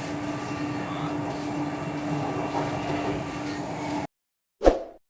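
Chennai metro train running, a steady noise with one steady hum, which cuts off abruptly about four seconds in. A single short, loud sound follows near the end.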